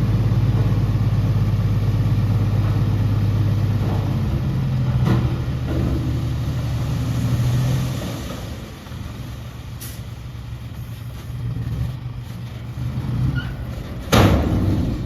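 Heavy diesel engine of earthmoving machinery running steadily with a low hum, falling quieter about eight seconds in. A short, loud burst of noise comes near the end.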